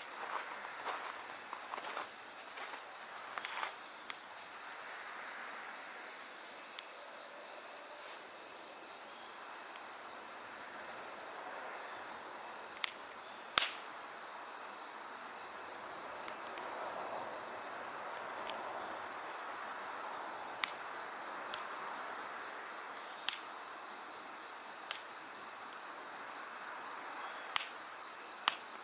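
Wood campfire crackling with a handful of sharp pops, the loudest about halfway through, over steady chirping of crickets and other night insects, one of them pulsing about once a second.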